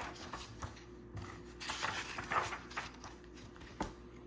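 Faint rustling and light handling knocks, with a sharper click near the end.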